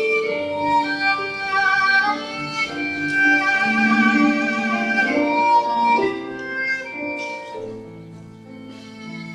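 Live band playing an instrumental passage, a violin carrying the melody in held notes with vibrato over lower accompaniment; the playing softens over the last couple of seconds.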